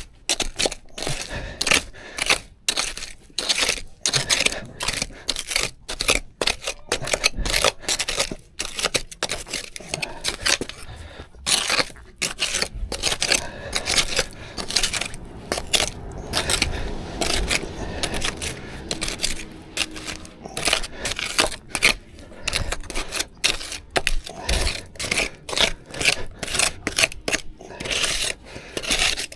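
Metal shovel digging into stony ground, a quick series of scrapes and clinks at about two strokes a second, with a longer steady scrape past the middle.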